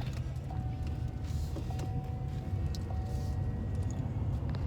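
Car cabin noise while driving: a steady low road-and-engine rumble, with a faint thin whine that comes and goes and a few light clicks.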